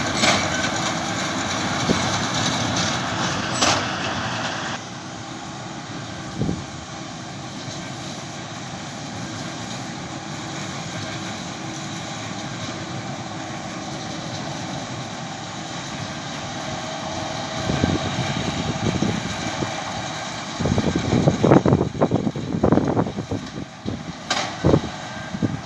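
John Deere tractor running with a baler at work on straw, a steady engine and machinery sound. It is louder for the first few seconds, then quieter and even, with irregular knocks and thumps in the last few seconds.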